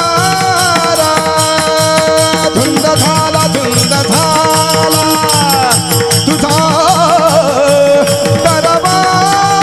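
Marathi kirtan music: a male singer holds long notes, ornamented with wavering turns partway through, over steady sustained accompaniment and a continuous beat of drum and hand cymbals.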